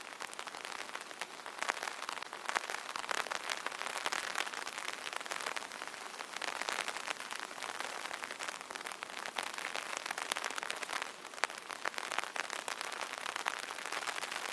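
Steady light rain pattering on an open umbrella's canopy, many small drop ticks close by.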